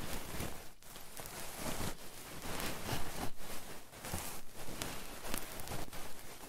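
Close-miked rubbing and rustling on a microphone, the ear-rubbing of ASMR, in uneven strokes with brief pauses between them.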